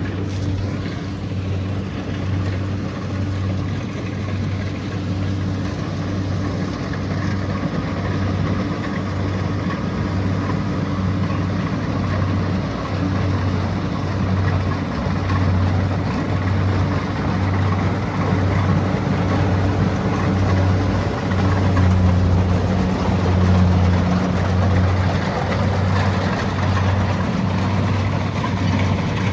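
Kubota DC70 Pro combine harvester running steadily at work: a constant low diesel hum with a faint regular pulse, over the even rushing noise of the machine. The sound swells slightly and a second hum tone comes in about three quarters of the way through.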